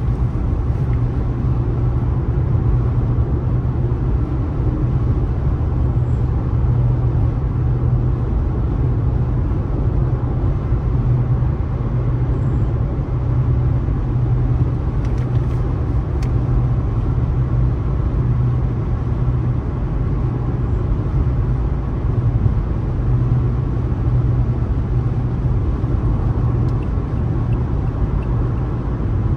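Steady low rumble of a car driving along: tyre, road and engine noise with no change in pitch or level.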